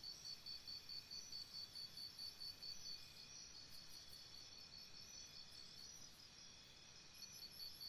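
Faint insect chirping: a high chirp repeating about four times a second that stops about three seconds in and starts again near the end, over a soft outdoor hiss.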